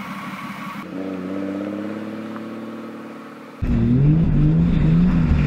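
Turbocharged BMW E46 325 with an M50B25 inline-six and GT35 turbo, engine running. First a steadier engine note sags slightly in pitch. Then, after an abrupt cut about three and a half seconds in, the engine is much louder, heard from inside the cabin, its pitch rising and falling as it revs.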